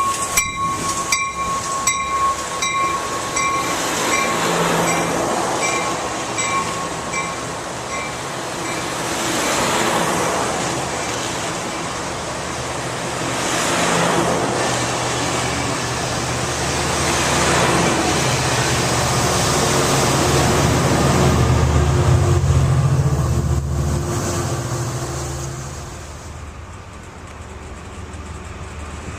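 A train passing on the tracks: rail and wheel noise that swells and eases in waves, with a low engine drone building to the loudest point late on and then dropping away. For the first several seconds a ringing tone repeats about twice a second and fades out.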